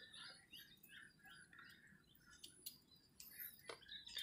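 Near silence: faint birds chirping repeatedly in the background, with a couple of faint clicks.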